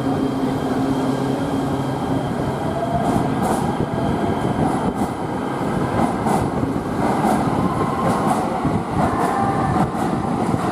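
An LA Metro train running through the underground station, its wheels clicking over rail joints from about three seconds in, over a steady rumble and a faint whine.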